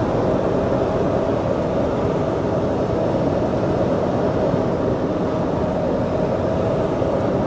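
Detroit Diesel Series 60 12.7-litre engine of a 1999 International cabover dump truck running steadily while the loaded truck drives, with road noise.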